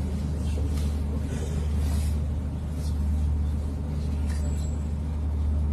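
A steady low rumble with no voice over it.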